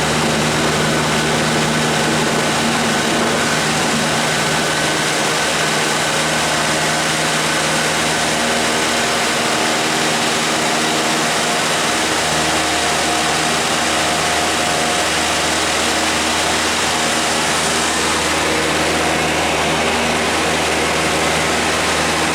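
Cessna 152's four-cylinder piston engine and propeller running at steady high power during takeoff and climb, heard from inside the cabin as a loud, even drone with a dense rush of noise over it.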